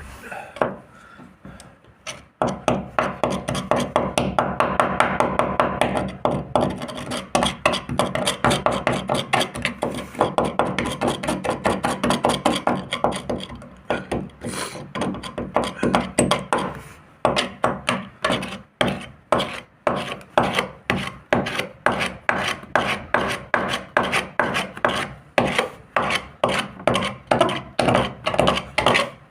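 Hand rubbing on a boat hull: a rasping, sanding sound in fast back-and-forth strokes. About halfway through it slows to separate strokes at about two a second.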